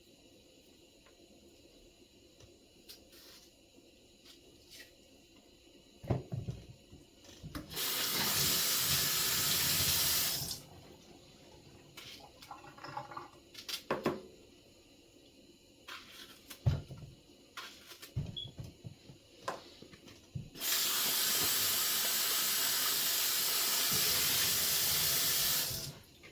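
Kitchen tap turned on and running water, twice: once for about three seconds and again for about five seconds near the end, each time starting and stopping abruptly. Scattered knocks and clatter in between.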